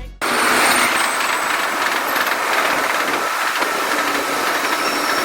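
Train running on rails: a loud, steady rushing rail noise that starts abruptly as rap music cuts off, with faint high squeal tones coming in near the end.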